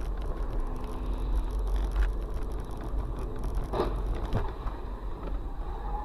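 A car driving, with steady low road rumble and engine hum, and a couple of short knocks or rattles about four seconds in.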